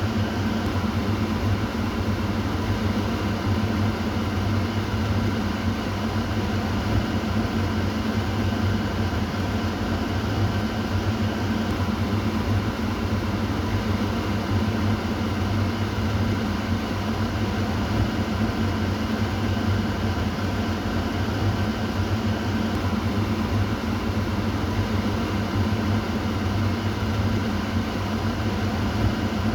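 Kitchen exhaust fan running steadily: an even rush of air over a low motor hum.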